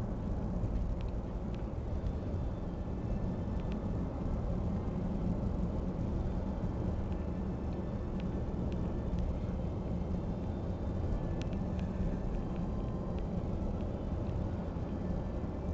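Steady low rumble of vehicles, with a few faint ticks over it.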